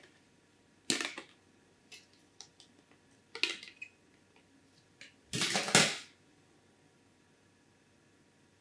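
A few light clicks, then a short metallic clatter about five seconds in, from hands working the motherboard's AM5 CPU socket and its metal retention hardware while a Ryzen 9 7950X is fitted.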